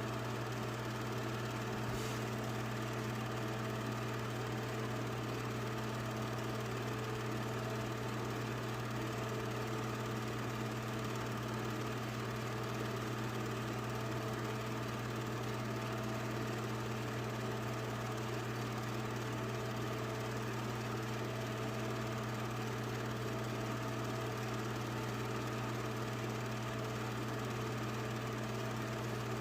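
Steady low mechanical hum that does not change in pitch or level, with a faint click about two seconds in.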